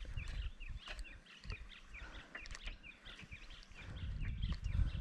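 Many small birds chirping and calling, short quick chirps overlapping one another, over a low background rumble.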